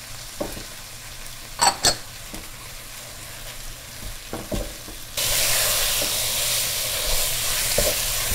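Lamb and celery leaves frying in a pan as dried mint is added and stirred in: a couple of sharp taps about one and a half seconds in, then the sizzling suddenly gets much louder about five seconds in and keeps on.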